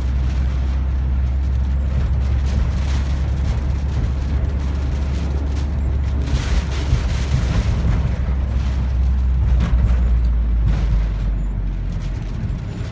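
Typhoon-force wind gusting, with a heavy low rumble of wind buffeting the microphone. A stronger gust swells about halfway through and the wind eases slightly near the end.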